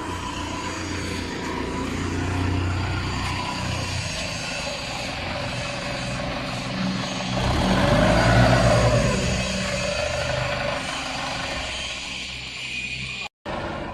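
Machinery running steadily, with a swell in loudness and a tone that rises and falls about halfway through, and a brief dropout near the end.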